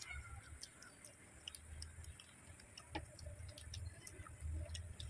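Eating sounds of people chewing crispy fried chicken: a scatter of small wet mouth clicks and smacks, with low rumbling bursts.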